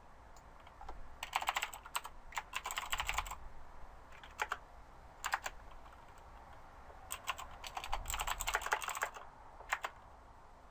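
Typing on a computer keyboard in short bursts of rapid key clicks with brief pauses between them.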